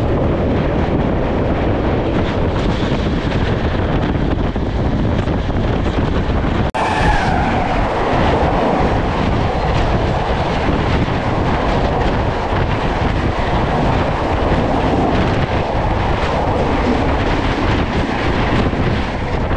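Express train running at speed, heard from an open coach doorway: a steady rush of wind and wheel-on-rail noise. About seven seconds in the sound cuts abruptly to another passenger train rushing past close alongside on the next track.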